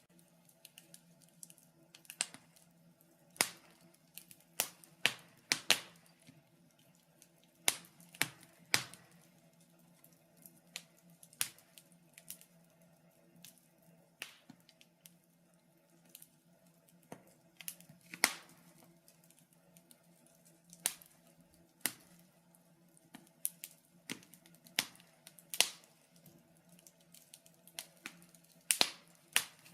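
Wood fire burning in a fireplace, crackling with irregular sharp pops and snaps, some louder than others, over a faint steady low hum.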